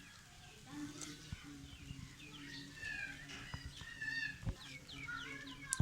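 Indian ringneck parakeets chirping in many short, high, quickly falling notes, with a low steady hum coming and going underneath.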